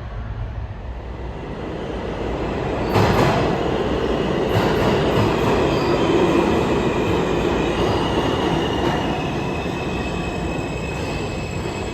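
New York City subway train moving through the station, building up and getting suddenly louder about three seconds in, with wheels clacking over rail joints. Thin, steady wheel-squeal tones sound over the rumble in the second half.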